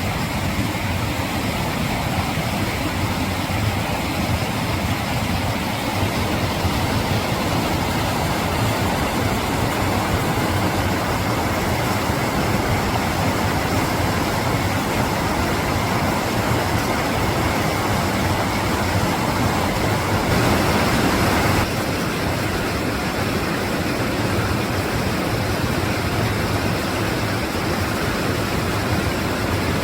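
Mountain stream water rushing steadily over rocks, a continuous loud hiss and burble. It swells briefly about twenty seconds in.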